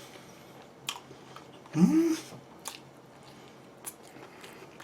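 A person chewing and biting wood-fired roast chicken close to the microphone, with a few sharp wet mouth clicks. A brief rising hum of the voice comes about two seconds in.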